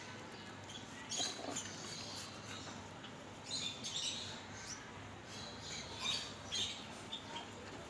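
Small caged parrots calling in short, scattered chirps, a few of them louder, about a second in, around four seconds in and around six seconds in, over a faint steady background.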